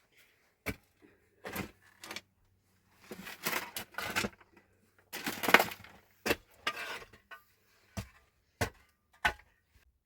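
A string of sharp knocks and clatters, about a dozen spread out, with two longer scraping, rustling stretches in the middle, the second the loudest.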